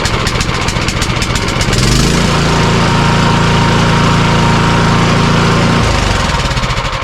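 Craftsman tiller's four-stroke single-cylinder engine running just after starting, freshly serviced with its valve clearances set. About two seconds in it revs up and holds a steady higher speed, then drops back near the end.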